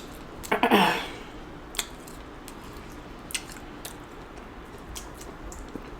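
Wet squelching of sauce-drenched seafood being handled, with one louder squelch under a second in and a few light clicks after it.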